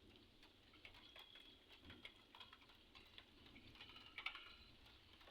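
Faint, irregular ticks of light raindrops falling again.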